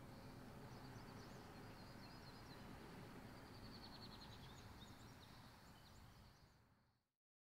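Near silence: faint room tone with a low hum and distant small birds chirping, including a quick trill about halfway through, fading out near the end.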